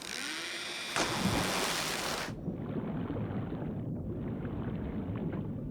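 Cartoon water sound effects: a bright rush of splashing water with a second surge about a second in, then a steadier, duller churning of water.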